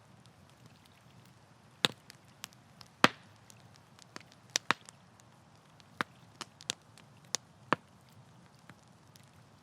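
Wood campfire crackling: irregular sharp pops and snaps over a faint steady background, the loudest pops about two and three seconds in.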